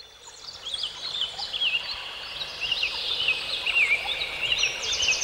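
Birds chirping, with many short whistled calls that rise and fall, over a soft hiss. The sound fades in over the first second, and a quick trill comes near the end.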